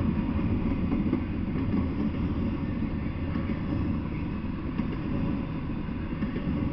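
Intermodal freight train of double-stack container well cars passing: a steady low rumble of steel wheels on the rails.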